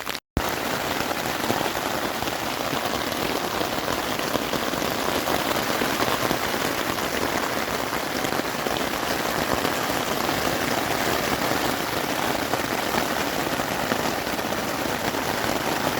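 Steady rain falling on a tent, an even hiss of drops with no let-up, after a brief dropout of sound just after the start.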